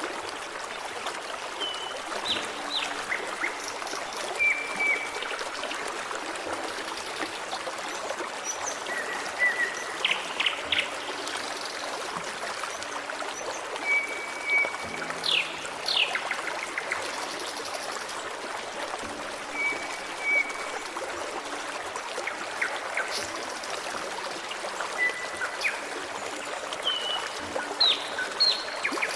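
Forest stream flowing steadily, with birds singing over it: short whistled notes and quick falling calls every few seconds.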